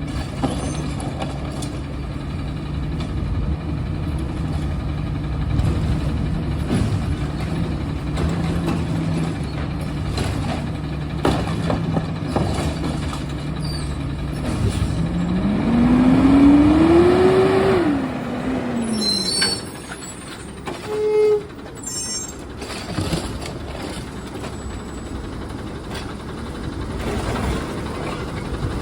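Garbage truck engine running steadily, then revving up and back down about halfway through. A brief loud sound follows a few seconds later.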